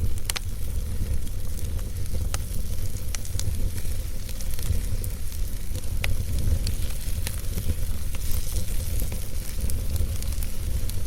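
Wood fire burning in a fireplace: a steady low rumble of flames with a hiss, broken by scattered sharp crackles and pops from the burning logs every second or two.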